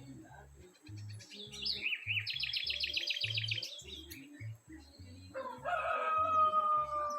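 A songbird sings a quick series of rapidly repeated high notes, then about five seconds in a rooster crows one long drawn-out call. A low, regular beat of background music runs underneath.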